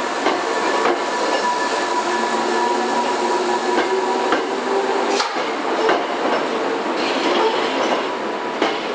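Hankyu 3300 series electric train running past, with steady running noise and a light hum, and irregular sharp clacks as the wheels cross rail joints.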